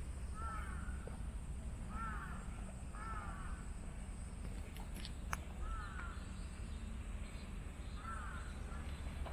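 A bird calling five times, short calls that rise and fall in pitch, spaced unevenly, over a steady low outdoor rumble. A single sharp click sounds about five seconds in.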